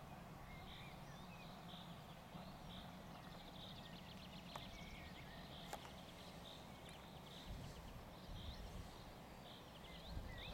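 Faint birdsong in open country: short high chirps repeated about twice a second, with a few other small calls, over a steady low background rumble.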